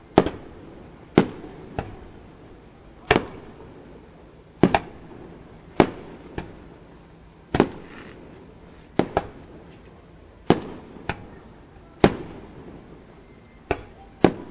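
Aerial firework shells bursting: sharp bangs at irregular intervals of about one to two seconds, several followed quickly by a second, smaller bang.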